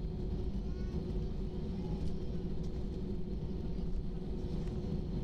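Airliner jet engines running with a steady low rumble and a faint hum.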